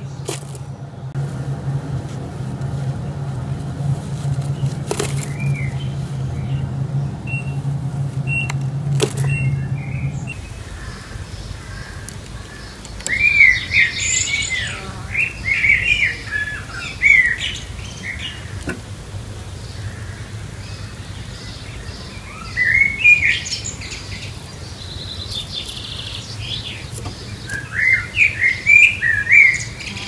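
A steady low hum with a few sharp clicks and faint chirps. Then, after a cut, a bird calls in three short bouts of quick repeated notes.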